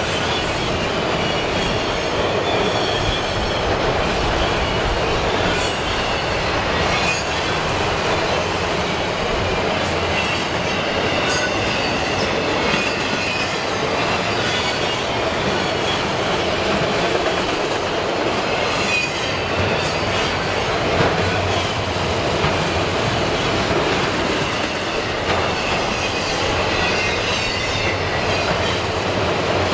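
Long CSX freight train of empty auto rack cars rolling steadily past: a continuous rumble of wheels on rail, with scattered sharp clicks and faint high wheel squeal.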